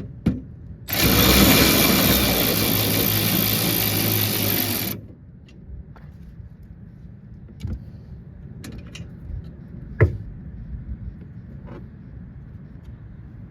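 Cordless power driver running for about four seconds, spinning out a small bolt, then stopping abruptly. A few light clicks and clinks follow as the bolt and tool are handled.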